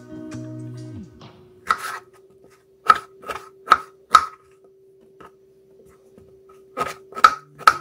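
A run of sharp knocks on a hard surface, five spaced about half a second apart and then three more near the end, with a faint steady hum between them. Background music fades out about a second in.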